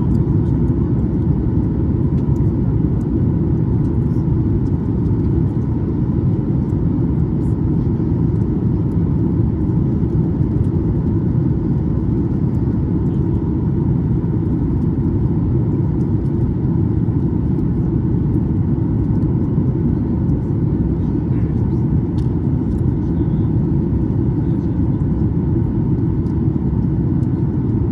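Steady cabin noise inside a Boeing 737 MAX 9 with CFM LEAP-1B engines: a loud, even, low rumble with a faint steady tone above it.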